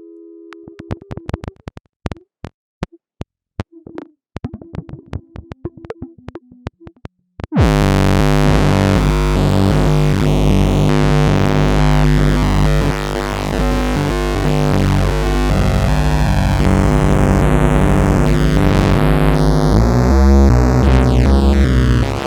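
Synthesized electronic sound effects. First comes an irregular run of sharp clicks and short blips. At about seven and a half seconds a loud, dense synthesizer texture of rapidly stepping tones starts suddenly and continues.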